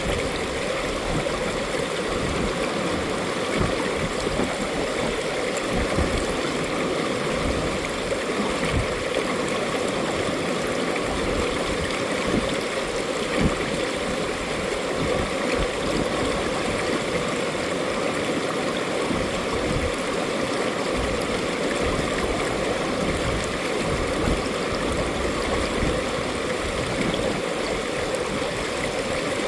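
Mountain stream water rushing and gurgling over rocks, a steady, even flow with small splashes.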